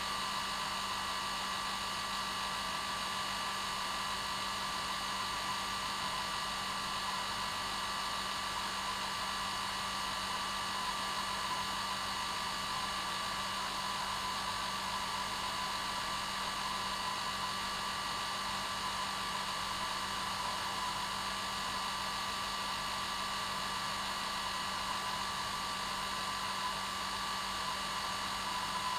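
Hair dryer running steadily on its normal setting: an unchanging rush of air with a constant motor hum and whine.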